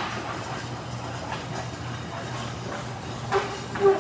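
Raynor garage door opener running as the door closes, a steady electric motor hum, with two sharp squeaks from the door near the end.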